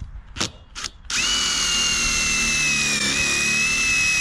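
A handheld power tool spins up about a second in with a quick rising whine and then runs steadily at high speed, after two sharp clicks.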